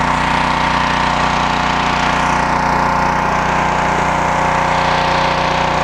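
Gas engine of a 3000 psi, 2.5 gpm pressure washer running steadily under load, with the hiss of high-pressure water spraying from the surface cleaner.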